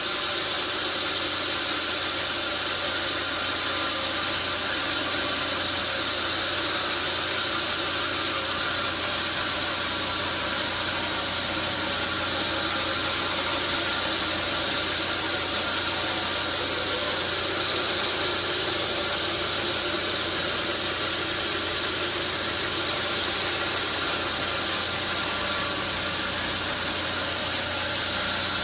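Sawmill machinery running steadily: an even, unbroken machine noise with a constant hum.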